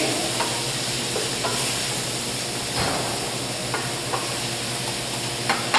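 Pan of vegetables and chickpeas sizzling and bubbling as chicken stock deglazes it, stirred with a wooden spoon that gives a few light knocks and scrapes.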